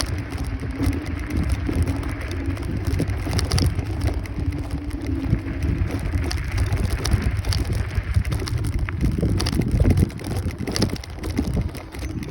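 Wind buffeting the microphone and tyre and road noise from a Kaabo Wolf Warrior 11 Pro electric scooter on the move, with a steady low hum through the first half.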